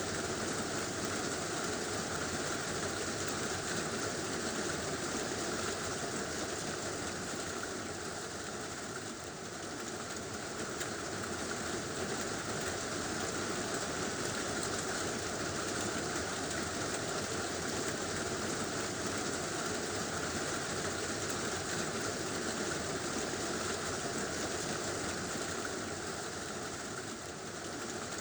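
Heavy rain falling steadily on a tin roof, a constant dense patter that eases slightly twice.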